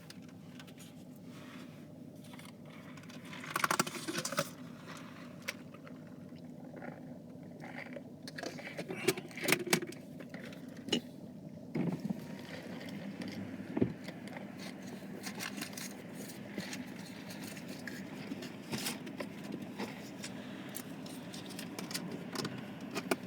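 Steady low hum inside a parked car, with scattered small clicks, jingles and rustles of things being handled, clustered about 4, 9 to 10, 12 and 14 seconds in.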